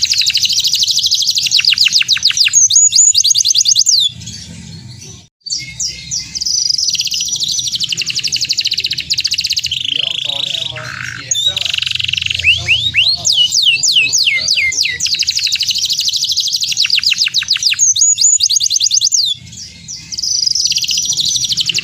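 Domestic canary singing a long, fast song of rapid trills and repeated falling sweeps, breaking off briefly about four seconds in and again shortly before the end.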